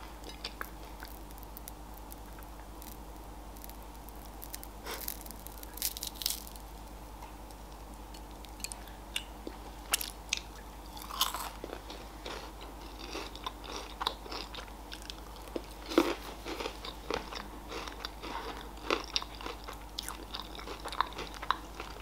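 Close-miked biting and chewing of Raffaello coconut-almond wafer candies: scattered crisp crunches and mouth clicks, sparse at first and more frequent after about five seconds.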